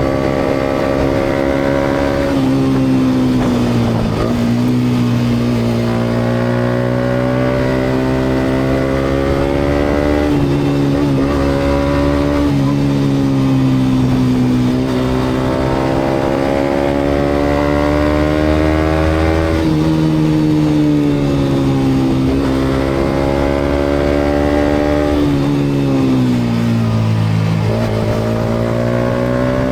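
Yamaha MT-125's single-cylinder 125cc four-stroke engine running through an aftermarket GPR exhaust while riding. The engine note climbs and falls again and again, with several sudden drops in pitch, over road noise.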